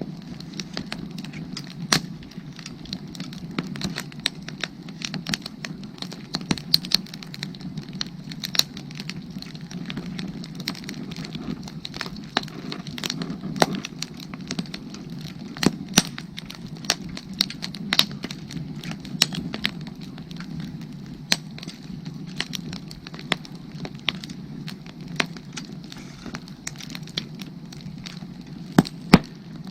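Firewood burning, crackling with sharp, irregular pops and snaps over a steady low background.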